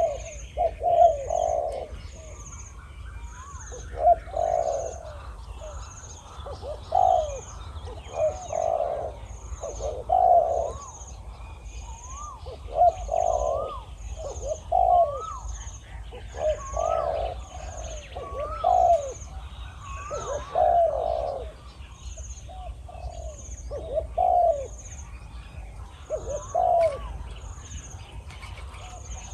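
Spotted doves cooing in repeated phrases every second or two: a caged decoy dove and a deep-voiced wild dove calling back and forth. A faint, even high chirp repeats about once a second in the background.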